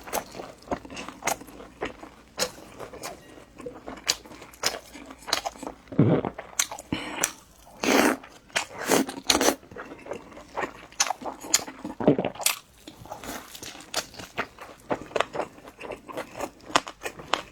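Close-miked eating: irregular crunchy bites and chewing of crisp food, with a few louder bites about 6, 8 and 12 seconds in.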